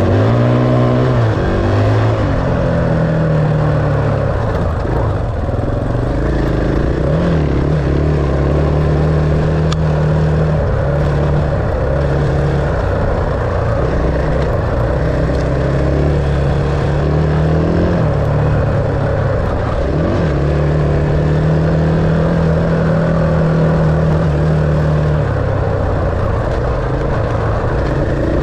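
Enduro dirt bike engine running under changing throttle while being ridden, its pitch rising and falling every few seconds as the rider opens and closes the throttle.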